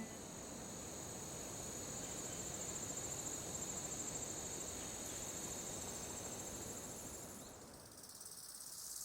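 Faint outdoor insect chorus, a steady high, fast-pulsing drone over a soft hiss of ambient noise. The insect sound stops about seven and a half seconds in, leaving a higher hiss.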